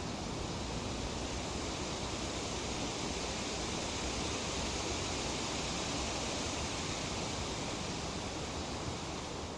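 Tree leaves rustling in a light breeze: a steady, even hiss that swells a little through the middle.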